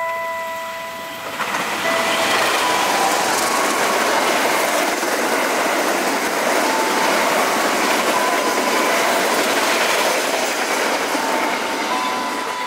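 Diesel-hauled passenger train passing at speed close by. A loud rush of wheels on rail with rapid clickety-clack from the coaches sets in about a second and a half in and holds steady as the coaches go by.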